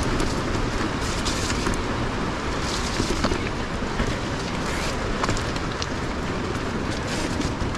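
Steady rushing noise of an electric mountain bike rolling over a rough rocky track, with small clicks and rattles from the tyres and bike on stones and wind on the microphone.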